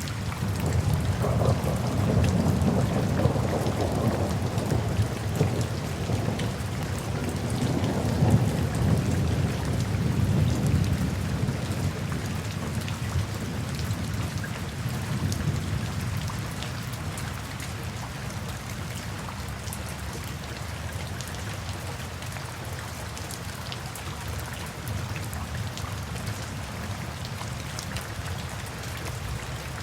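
Steady rain falling, with a long low roll of thunder that swells about a second in and fades away over the next fifteen seconds or so.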